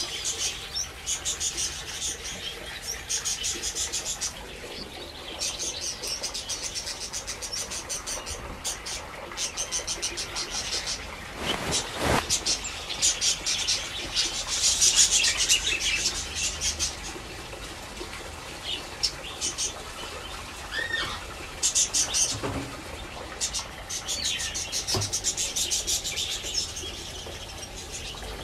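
Birds chirping rapidly and high-pitched in repeated bursts, on and off throughout.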